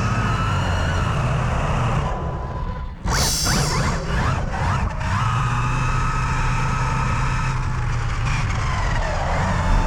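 Electric RC cars' motors running with a steady whine and hum. About three seconds in it drops away briefly, then comes back with a burst of high-pitched gliding whine.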